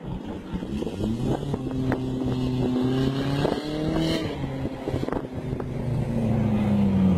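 Cars' engines accelerating hard down a drag strip toward the listener, growing steadily louder. The engine pitch climbs, drops back about four seconds in, then climbs again.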